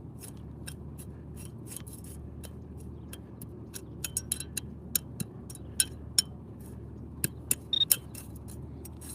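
Dirt and leaf litter crackling and clicking in scattered sharp ticks as a dug plug is pressed back into its hole, the ticks coming more often from about four seconds in. A brief high beep sounds about eight seconds in, over a steady low background noise.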